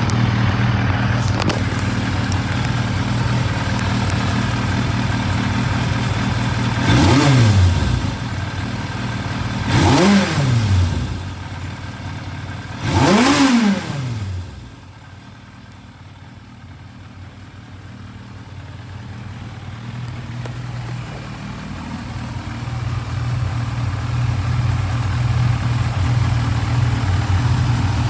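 Yamaha YZF1000R Thunderace's inline-four engine idling and blipped three times, about three seconds apart, each rev rising and falling quickly. After the third blip the idle drops well quieter for several seconds, then grows steadily louder again.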